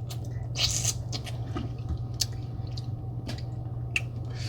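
Wet eating sounds from a sauce-covered seafood boil: squishing, chewing and small smacking clicks, with a brief louder squelch just under a second in, over a steady low hum.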